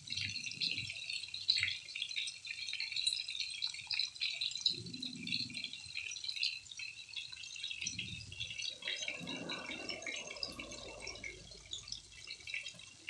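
Stovetop cooking: a steady crackling sizzle of pork chops frying in oil, mixed with the bubbling of a pot of chicken sinigang on the boil. A few low muffled bumps come about five seconds in and again around eight to ten seconds in.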